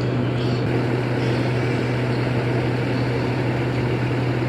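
An engine running steadily with an unchanging low drone and no revving.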